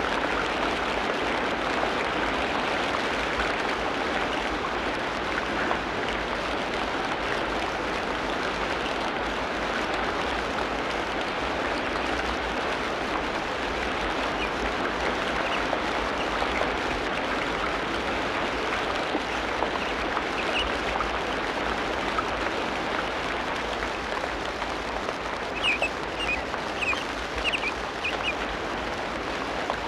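Tropical rainforest ambience: a steady hiss, with a bird chirping several short times near the end.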